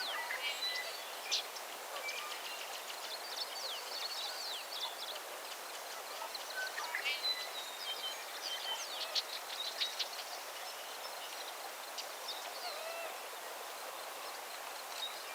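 Several small birds chirping and calling, with many short, quick notes and downward-sweeping whistles, over a steady background hiss.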